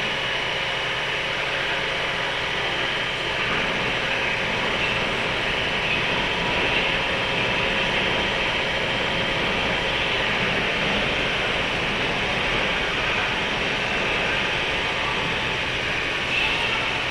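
Steady running noise inside a 103-series electric multiple unit motor car with MT55 traction motors: continuous wheel-and-rail rumble and hiss at an even speed, with faint steady tones from the drive.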